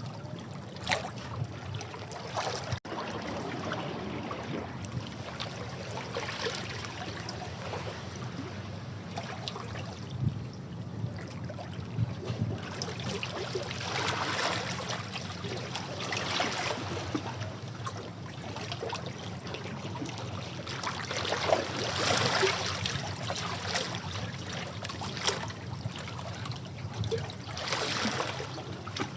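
Sea waves washing against rocks, surging and draining in uneven swells every few seconds, with a few sharper splashes.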